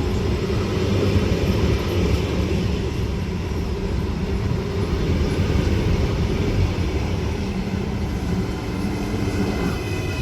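A train running through a station: a steady low rumble, with a high-pitched squeal setting in near the end.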